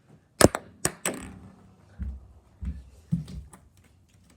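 A small ball bouncing on hard surfaces during a missed trick shot at a cup: several sharp clicks about half a second in, the first the loudest, then a few duller knocks a second or so later.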